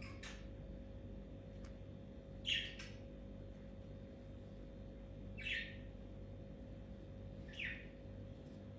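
Four short, high chirping calls from an animal, a few seconds apart, each falling in pitch, over a faint steady hum.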